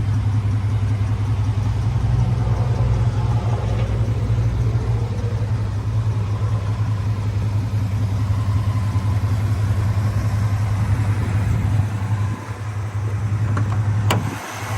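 A 5.0-litre V8 idling steadily through a Flowmaster muffler, a low even hum. A single sharp click near the end.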